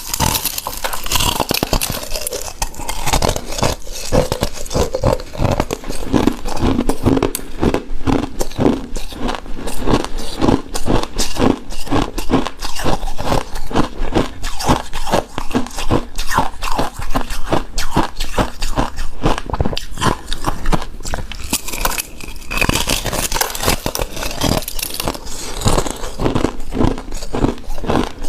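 Close-miked eating of shaved ice dessert: a dense, irregular run of crisp icy crunches and chewing sounds.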